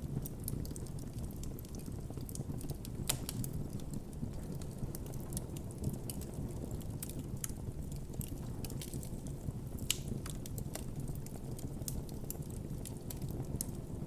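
Wood campfire burning: a steady low rumble of flames with frequent irregular crackles and sharper pops, the loudest about three seconds and ten seconds in.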